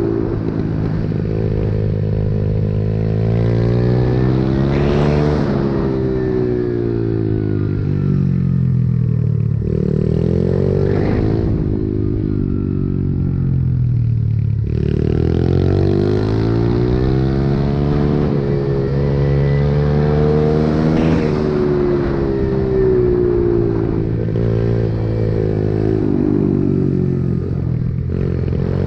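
Pit bike engine running hard under a rider, its pitch climbing and dropping over and over as the throttle is opened and shut, with a sharp drop in revs about halfway through.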